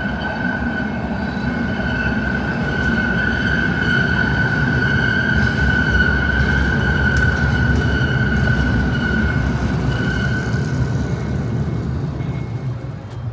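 A train passing close by: a low rumble with a steady high whine over it, building to a peak about midway and then fading away.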